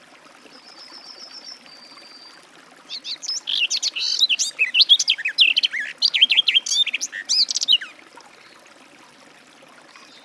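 Garden warbler singing one long, rapid, varied warbling phrase of about five seconds, starting about three seconds in. It is preceded by a faint, thin, even trill from another bird.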